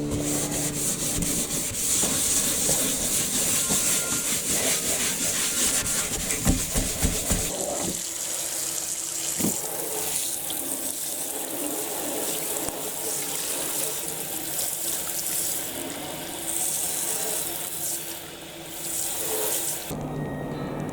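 Water running from a kitchen tap into the sink as things are washed, with a few brief knocks, until the water shuts off just before the end.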